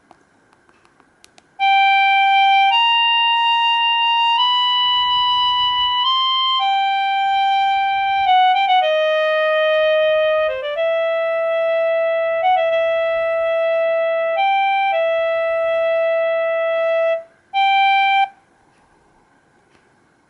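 A Samsung GT-E1182 mobile phone plays one of its built-in ringtones: an electronic melody of held notes, one note at a time. It starts about a second and a half in after a few faint clicks, pauses briefly near the end, plays one last short note and stops.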